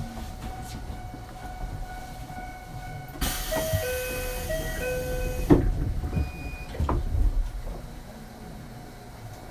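Door-closing sequence on an Ichibata 7000-series railcar: a loud hiss of compressed air with a two-note chime sounding twice, then a sharp knock and a few more knocks as the sliding doors shut. A faint steady hum and tones from the stationary car run underneath.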